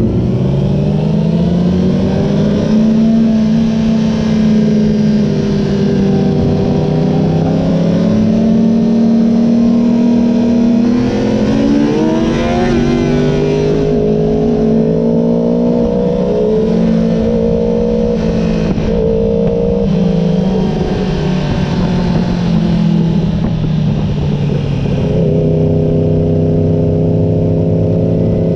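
A Honda sportbike's engine heard from on board while riding. Its pitch climbs and eases with the throttle, with a sharp rise about twelve seconds in and a dip a few seconds before the end.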